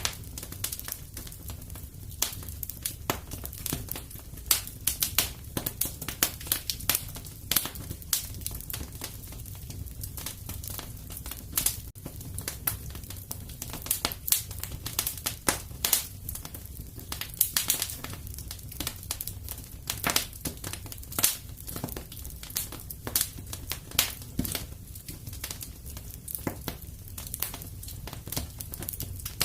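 Fire crackling in a fireplace: irregular sharp pops and snaps, some louder than others, over a low steady rumble.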